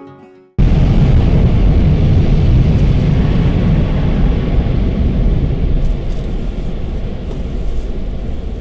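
Automatic car wash air dryers blowing onto the car: a loud, steady rush of air, heavy in the low end. It cuts in suddenly about half a second in and eases off slightly toward the end.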